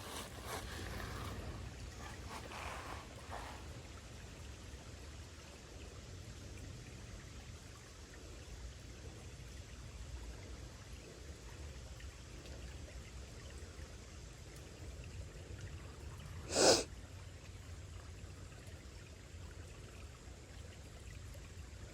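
Faint steady hiss of creek water with a low wind rumble on the microphone. About seventeen seconds in there is one short, sharp, louder noise.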